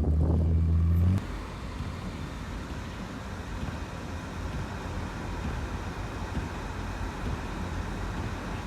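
Car driving, with steady road and tyre noise. A loud low engine hum in the first second cuts off suddenly.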